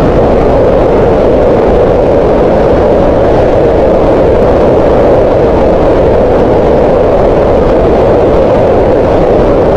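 Green noise: a loud, steady, even rushing noise centred on the middle pitches, with no changes or events.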